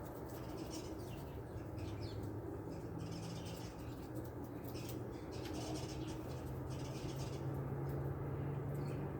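A few faint, short bird chirps and small clicks over a steady low hum that swells slightly toward the end.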